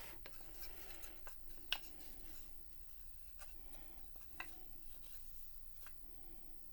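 Faint rubbing and scratching from wooden piano keys and their felt being handled, with a few light clicks. The sharpest click comes a little under two seconds in.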